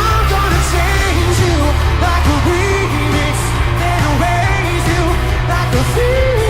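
Pop song with a singer over a heavy, steady bass beat.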